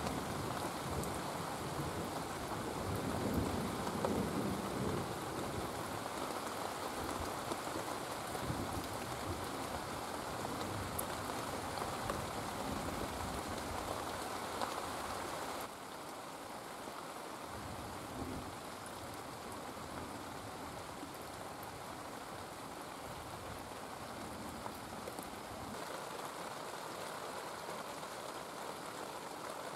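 Heavy rain falling steadily, with a low rumble of thunder in the first few seconds. The rain drops suddenly to a quieter level about halfway through.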